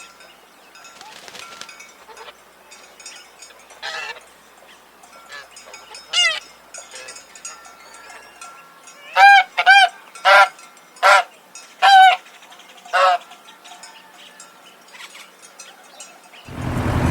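Goose honking: a couple of scattered honks, then a run of six loud honks about half a second to a second apart.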